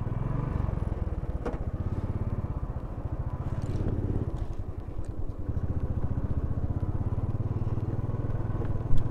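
Motorcycle engine running steadily with an even low pulsing, and a single sharp knock near the end.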